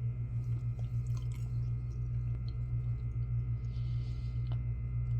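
A person chewing a fried white sweet potato round, with faint soft mouth clicks and squishes, over a steady low hum that is the loudest sound.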